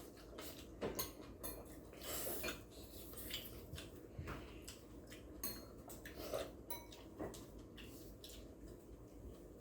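Eating utensils clicking, tapping and scraping against bowls and plates at a meal, in an irregular scatter of light knocks, a few of them with a brief ring.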